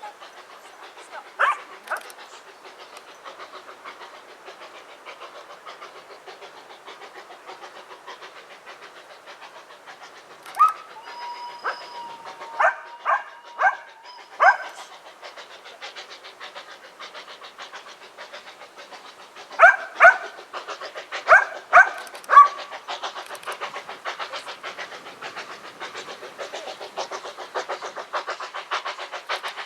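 A train running with a steady, fast rhythmic clatter, while a dog barks: once near the start, then in short runs around the middle and again about two-thirds of the way through.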